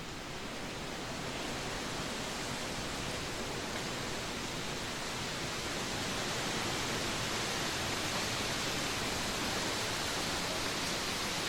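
Trade wind blowing steadily as a rushing noise. It grows louder and brighter over the first half and then holds.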